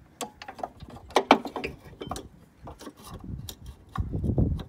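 Irregular metallic clicks and knocks of hand tools and car parts being handled during engine-mount work, the sharpest a little over a second in, with denser, lower handling noise near the end.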